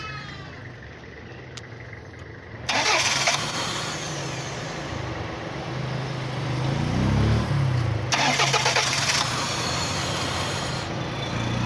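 Toyota Corona's four-cylinder 3S engine running, being checked for a misfire. It is revved up and let back down once about two-thirds of the way in. Loud hissing noise comes in suddenly about 3 s in and again about 8 s in.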